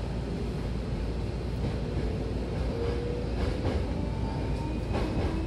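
Hankyu electric train heard from inside the car as it gathers speed: a steady rumble of wheels on rail, with a motor whine rising in pitch and a few clacks of the wheels over the track.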